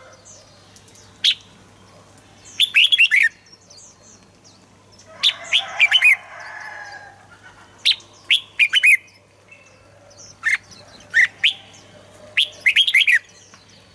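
Red-whiskered bulbul singing: short phrases of a few quick, clear, falling whistled notes, repeated every second or two.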